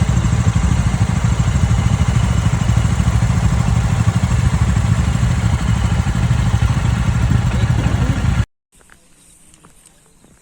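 Motorcycle engine running, loud and steady, with a noisy rush over it; it cuts off suddenly about eight and a half seconds in, leaving only faint background sound.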